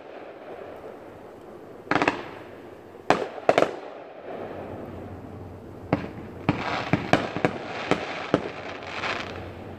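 Fireworks going off: a few separate bangs in the first four seconds, then a quick run of bangs with crackling from about six seconds in.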